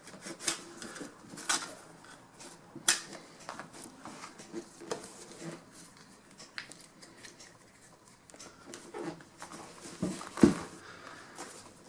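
Light handling noises: scattered taps, clicks and rustles as the upholstery cover material is folded and worked by hand, with a sharper knock about ten and a half seconds in.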